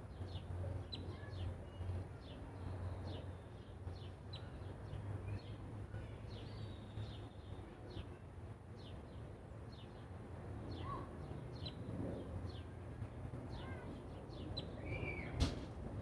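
Small birds chirping over and over: short high chirps come several times a second throughout, over a low rumble. A single sharp click sounds near the end.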